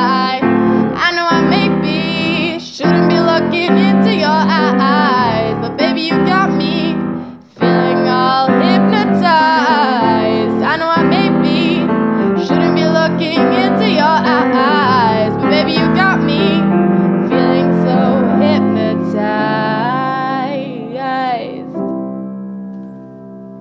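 Jazz-pop song: a female voice sings a wavering, ornamented melody over piano chords, then the music ends on a held chord that fades out over the last couple of seconds.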